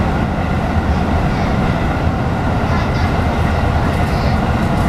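Electric commuter train running through a tunnel, heard from inside the front car: a steady rumble of wheels on rail with a steady whine over it.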